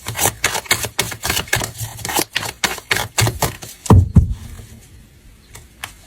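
Tarot cards being shuffled by hand: a quick run of crisp card snaps and clicks, then a couple of louder thumps about four seconds in, after which only a few light clicks remain.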